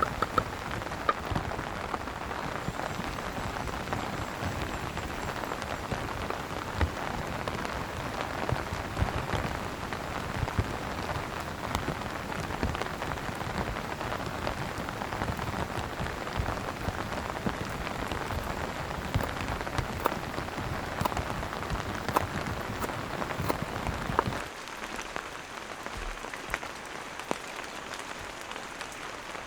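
Heavy rain pattering on a tent awning, a dense steady patter with sharper individual drop hits. About 24 seconds in it drops suddenly to a quieter, lighter rain.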